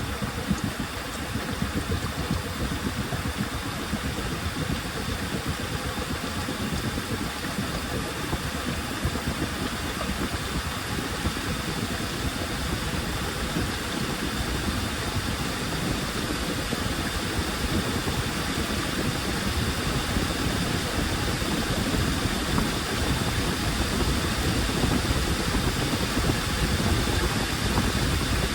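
Washing machine running mid-cycle: a steady motor and drum noise, slowly getting louder toward the end.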